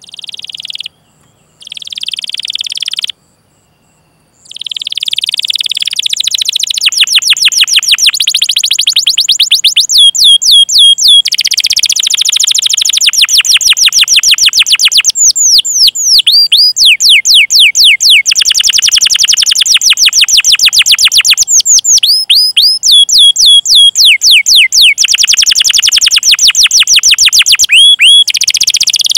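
Domestic canary singing a long song of rapid repeated 'cuit cuit' chirps and rolls: fast trills of down-slurred notes that change speed and pitch every few seconds. The song opens with two short bursts before it runs on unbroken from about four seconds in.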